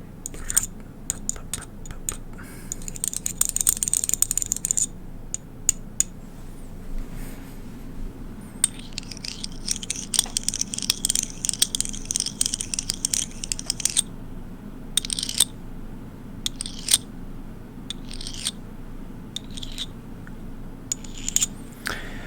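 A small metal toolbox piece tapping, clicking and scraping against a polished stone animal figurine. There are scattered sharp taps, with two longer scrapes: one about three seconds in, and a longer one from about nine to fourteen seconds.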